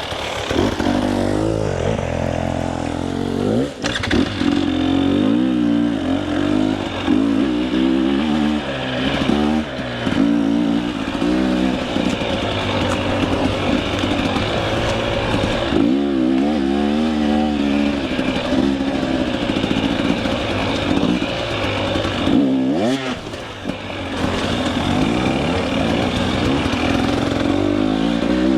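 Two-stroke KTM 300 EXC enduro dirt bike engine being ridden off-road, revving up and down constantly as the throttle is worked. The engine note drops off briefly about four seconds in and again around twenty-three seconds.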